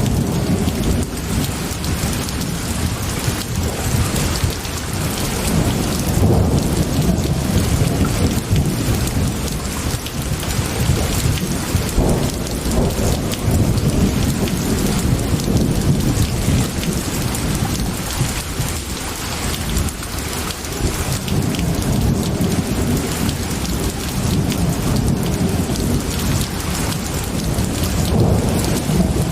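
Steady heavy rain, with low rolling thunder rumbling beneath it and swelling and fading several times.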